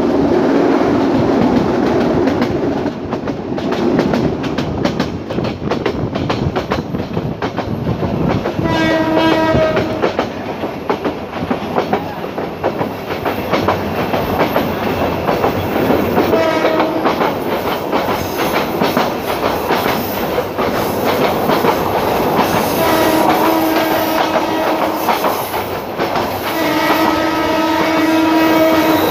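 Passenger train running on the track, heard from an open coach door or window: a steady rumble with the clickety-clack of the wheels. The train's horn sounds four times: short blasts about a third and about halfway through, a longer one near the end, and a long one that is still going at the end.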